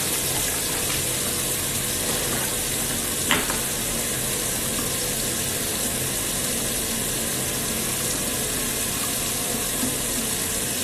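Steady, even rush of water running from a sink tap, with one brief tick about three seconds in.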